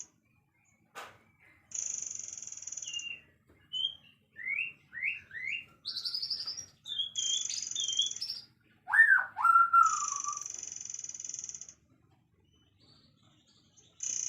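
Songbirds singing: a high buzzy trill comes in repeated phrases of one to two seconds, broken by short rising whistled notes. A louder swooping whistle comes about nine seconds in. There is a single click about a second in.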